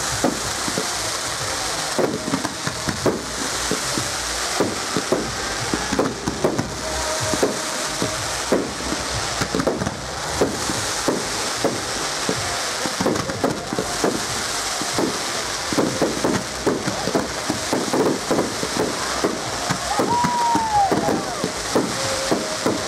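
Aerial fireworks bursting: a dense, irregular run of bangs and crackling over a steady hiss, with a short falling whistle about twenty seconds in.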